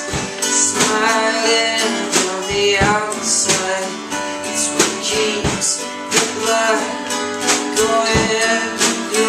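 A live band playing an instrumental passage of a song, led by strummed guitar.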